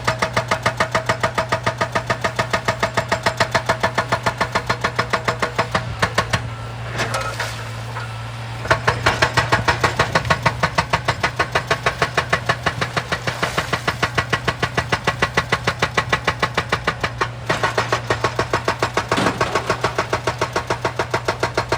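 Heavy machine running with a fast, even pounding beat of about six or seven strokes a second over a steady low hum, easing off briefly about a third of the way through before picking up again.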